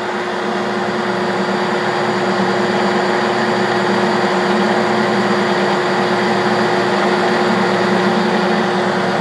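A 1967–68 Clausing Colchester 1340 engine lathe runs under power, taking a turning cut 100 thousandths off the diameter. It makes a steady running noise with a constant hum, growing slightly louder over the first few seconds.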